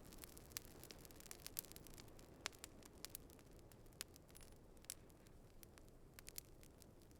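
Campfire crackling: irregular sharp pops and snaps, a few standing out louder, over a soft low rustle of burning.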